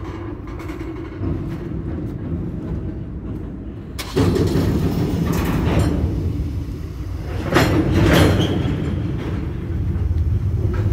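Freight train of covered hopper cars rolling past at close range: a steady rumble of wheels on the rails, louder from about four seconds in, with several sharp clanks.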